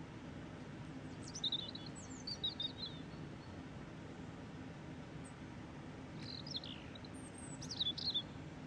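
A small bird chirping in two short runs of quick, high chirps, over a steady low hum.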